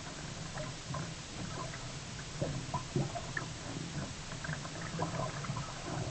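Water gurgling and lapping around a sea kayak, with many small irregular splashes and drips.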